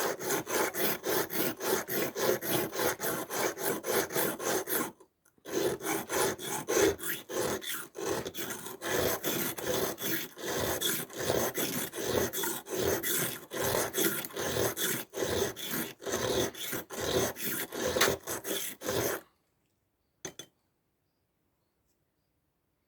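Steel of a Victorinox Swiss Army knife being ground back and forth on a dry sharpening stone: rapid scraping strokes, about three a second, with a short pause about five seconds in. The strokes stop near the end, followed by a single click.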